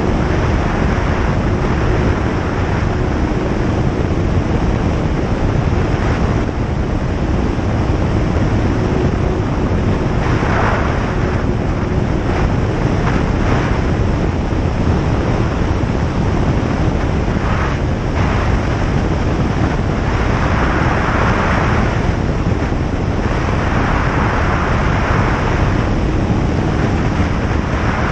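Single-engine light aircraft in flight: a steady, loud drone of piston engine and propeller mixed with rushing wind. A higher hiss swells a few times.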